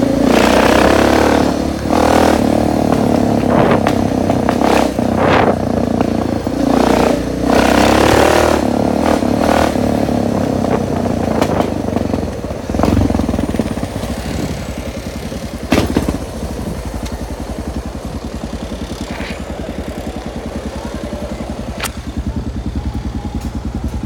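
Suzuki DR650's single-cylinder four-stroke engine revving up and down repeatedly, then settling to a steady, lower-pitched even run about halfway through.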